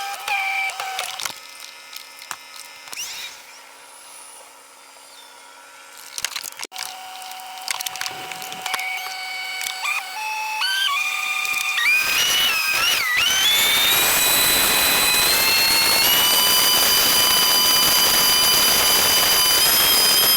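Sped-up recording of a boat launch, with its vehicle and motor sounds raised to a high pitch. Scattered knocks and short whines come first. About twelve seconds in, a loud whine starts with several high tones gliding upward, then holds steady to the end.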